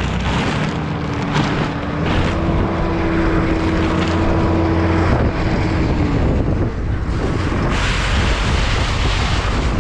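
Strong wind buffeting the microphone in gusts, a loud rumbling rush, with a steady droning tone underneath for the first several seconds.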